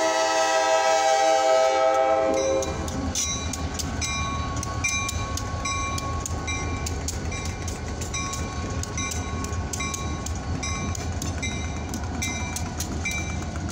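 Diesel freight locomotive's horn holding a chord, cutting off about two and a half seconds in. Then the locomotives' engines rumble past over the rails while the grade-crossing bell rings steadily, about twice a second.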